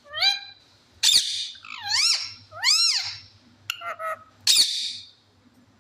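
Pet parrot calling: about six loud squawking whistles, each rising and falling in pitch, roughly one a second.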